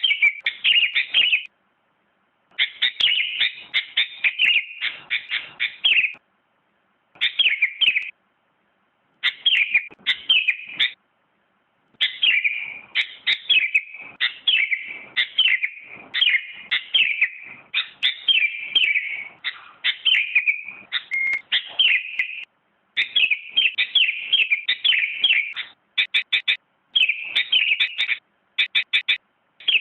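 Sooty-headed bulbul (kutilang) singing: rapid, repeated phrases of clear chirping whistles, in bursts of one to several seconds broken by short silent gaps.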